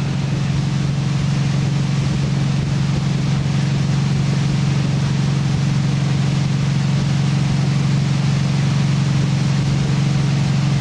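Tow boat's engine running at a steady cruising speed while it pulls a skier, a constant low hum, with rushing wind and water noise over it.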